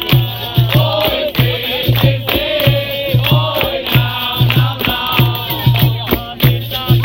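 Live capoeira roda music: singing voices over a steady drum beat with rattling percussion.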